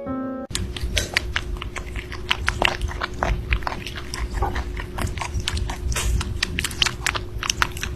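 An animal chewing noisily, with rapid, irregular crunching clicks.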